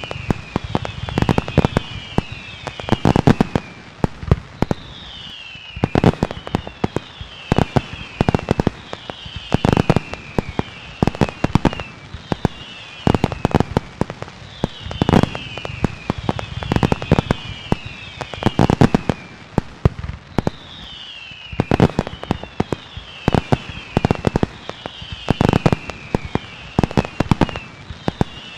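Fireworks going off in dense, irregular volleys of sharp bangs and crackles, with clusters of short falling whistles recurring every few seconds.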